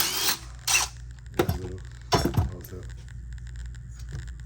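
Several short, noisy bursts of workshop tool sound, over a steady low hum.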